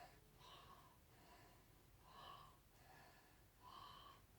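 Near silence with faint breathing: about five soft breaths, roughly one a second.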